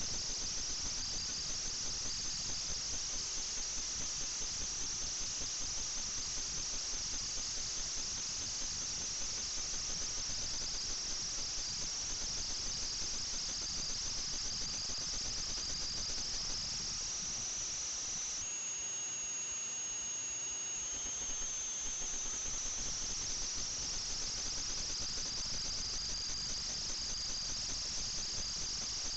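FPV quadcopter's brushless motors whining at high pitch, the pitch rising and falling with throttle. About two-thirds of the way in it holds one steady higher pitch for a couple of seconds.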